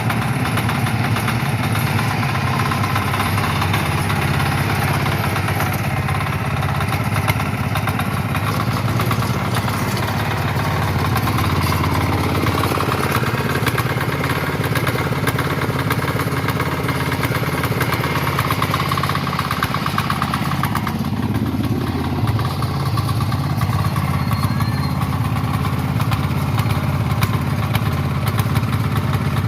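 A Kama engine on a power weeder running steadily at idle, with an even firing beat and no change in speed.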